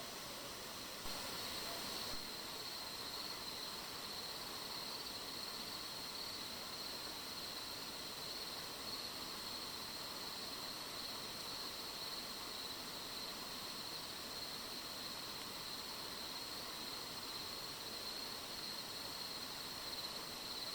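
A continuous, unbroken high-pitched trill from a night-singing animal, wavering slightly but never pausing, over a steady background hiss.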